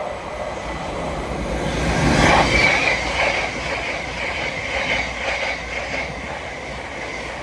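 Thameslink Class 700 electric multiple unit passing through: a rush of wheel and rail noise that swells to its loudest about two seconds in and then slowly eases, with a high steady whine over it.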